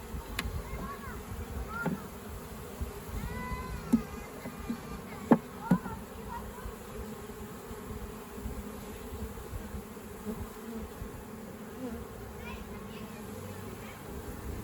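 Honey bees buzzing steadily around an open hive during a frame transfer, with a few sharp knocks, the loudest two close together about five seconds in.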